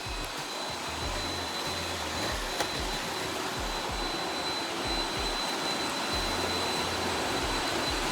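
Robot vacuum cleaner running: a steady motor and suction noise with a constant high whine, and a single sharp click about two and a half seconds in.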